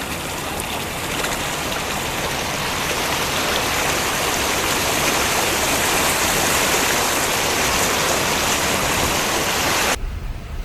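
Steady rush of water, growing a little louder, then cutting off abruptly near the end.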